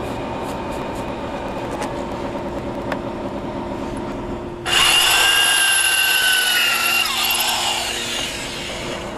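A power drill runs with a steady hum. About halfway through, the porcelain tile drill bit bites into hard tile with a sudden loud, high-pitched screech that wavers in pitch and fades out over about three seconds.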